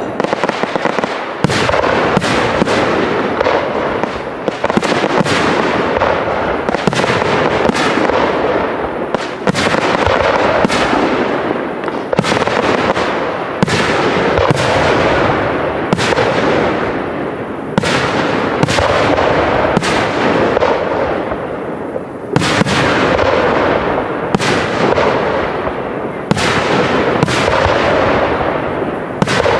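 Professional fireworks display: aerial shells bursting in quick succession, a steady run of sharp bangs, about one or two a second, over a continuous crackling haze.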